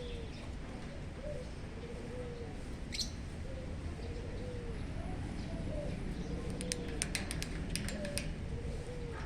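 A dove cooing over and over, a low arched coo about once a second. A single sharp high chirp comes about three seconds in, and a quick run of short sharp chirps near the end, typical of lovebirds.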